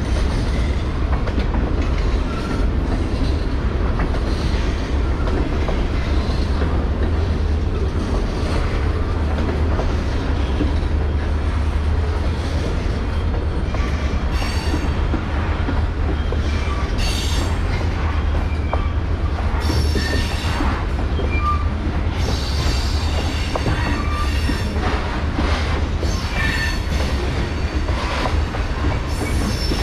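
Freight cars rolling slowly across an old railroad bridge: a steady low rumble, with scattered brief wheel squeals and screeches that come more often in the second half.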